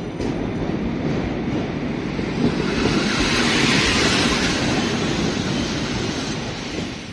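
Passenger coaches of a train rolling past close by along a station platform: a steady rush of wheel-on-rail noise and moving air that swells about halfway through and fades near the end.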